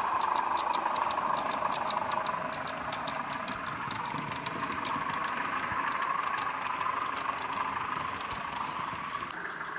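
Model train running on the layout: a steady engine-like drone with quick, even clicks from the wheels over the rail joints, about five a second, thinning out towards the end.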